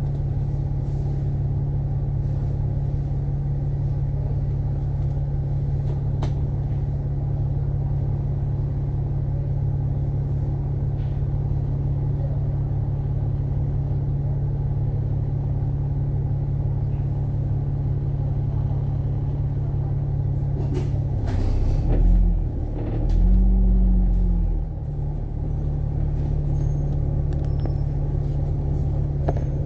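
Cabin sound of a KMB Alexander Dennis Enviro500 MMC double-decker bus: a steady low engine drone. About 21 seconds in, the engine note swells twice, rising and falling in pitch, then settles back to the steady drone.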